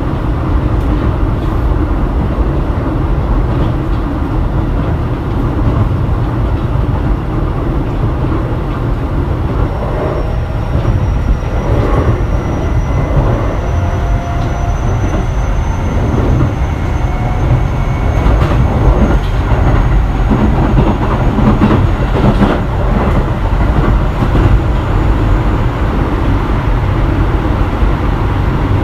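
Keio 7000 series electric train with Hitachi IGBT traction gear running along the line: a steady low rumble of wheels on rail with scattered clicks over the rail joints. From about a third of the way in, a faint high whine slowly rises in pitch, then fades out near the end.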